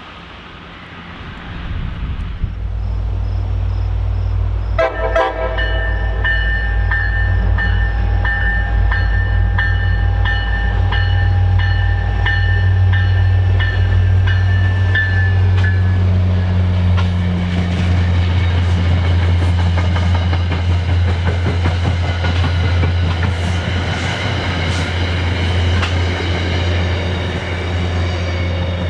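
MBTA commuter rail MP36PH-3C diesel locomotive approaching and passing with its train, the engine running with a steady low drone. About five seconds in it sounds a long chord horn blast that holds for roughly ten seconds. After that the train rumbles past with wheels clacking over the rail joints.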